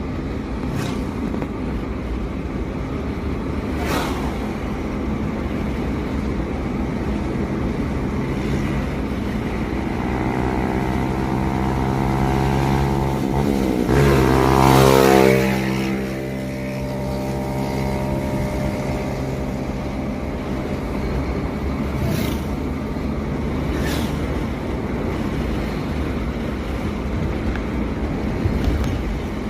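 Steady road and engine noise from a moving vehicle. About halfway through, another vehicle's engine grows loud as it passes close by, its pitch rising and then falling as it goes past.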